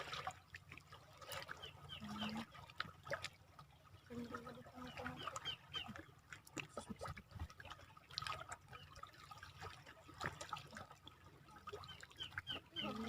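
Small water sounds of the shoreline, a soft trickling and lapping with light clicks. Three runs of short, quick high chirps, typical of a small bird, come about a second in, about five seconds in, and near the end.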